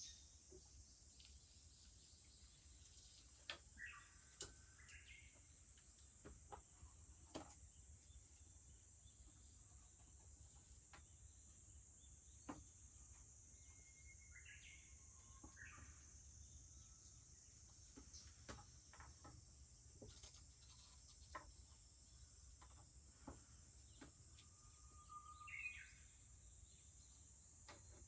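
Faint outdoor summer ambience: a steady high-pitched drone of cicadas, a Japanese bush warbler singing three short whistled phrases, and sparse pops and crackles from a wood fire.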